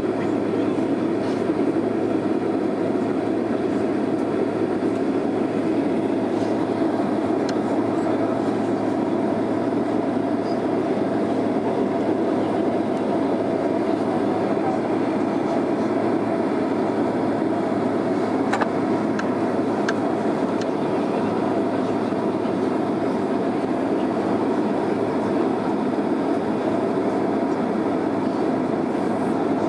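Steady rumble of a Boeing 767 airliner heard from inside the passenger cabin: engine and air-system noise holding an even level, with a faint click about two-thirds of the way through.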